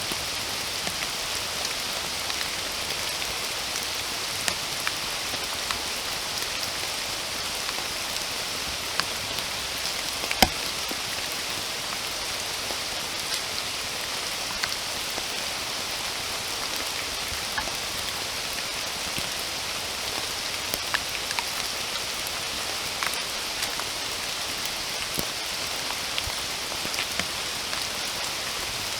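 Steady rainfall hissing, with scattered individual drops tapping close by and one sharper drop about a third of the way through.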